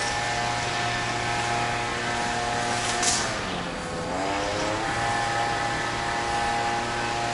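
A machine's engine or motor running with a steady pitched tone. About three seconds in, after a short sharp click, its pitch sags for about a second and then climbs back up.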